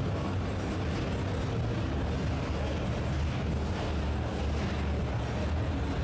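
Steady low rumble of a running engine over dense hall noise, with no distinct revs or bangs.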